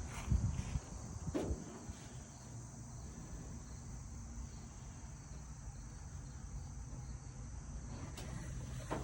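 Steady high-pitched insect chorus, cricket-like, with a couple of soft knocks in the first two seconds.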